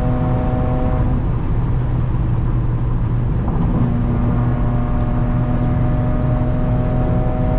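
Straight-piped Audi engine and exhaust heard from inside the car at part throttle, a loud steady drone that holds one pitch. Its tone fades for a couple of seconds about a second in, then comes back.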